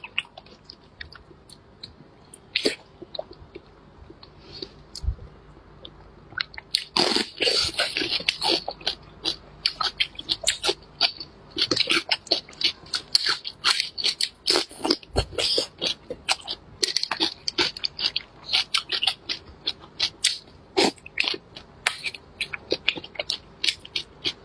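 Close-miked chewing of braised pork belly: mouth clicks, sparse for the first several seconds, then a dense run of quick clicks from about seven seconds in.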